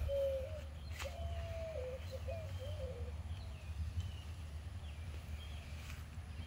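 Birds calling in a garden: a lower wavering call over the first few seconds, then short high chirps, over a steady low rumble, with one sharp click about a second in.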